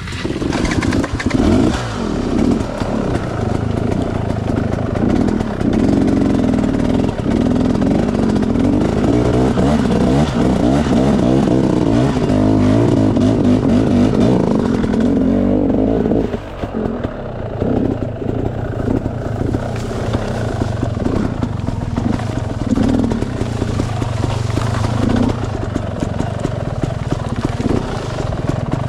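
Enduro dirt bike engine running and revving up and down under load, easing off about halfway through to a lower, steadier note.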